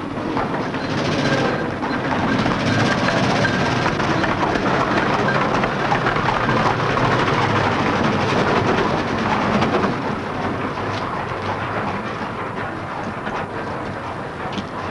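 Engine of an early-1900s open motor car clattering steadily as the car drives over cobblestones and pulls up, easing off a little about ten seconds in.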